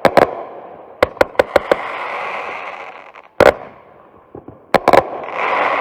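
TNT Mississippi Missile 25-shot consumer firework cake going off: sharp bangs in quick groups of two and four, with a hissing noise between the volleys.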